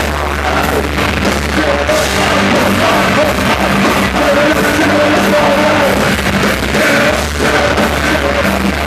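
Loud live rock band playing, with a singer's voice over a heavy, steady bass and distorted guitars and keyboards.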